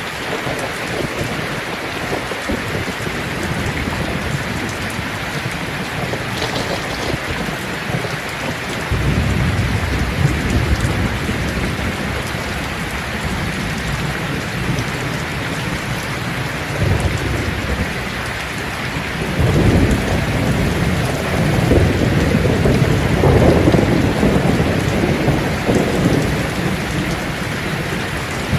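Steady rain falling on leaves, with low rolls of distant thunder rumbling up about a third of the way in and again, louder and longer, through the second half.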